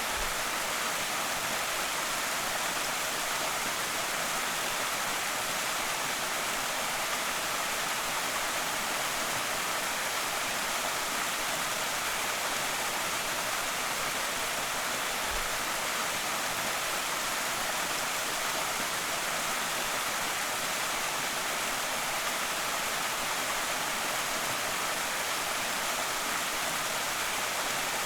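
Small creek waterfall rushing steadily: an even, bright hiss of falling water with little low rumble and no change throughout.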